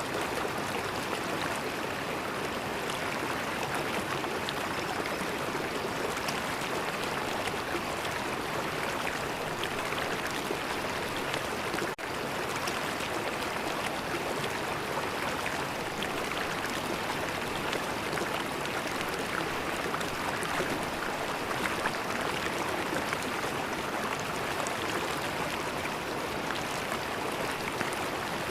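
River water flowing steadily, an even rushing with no breaks apart from a brief dip about twelve seconds in.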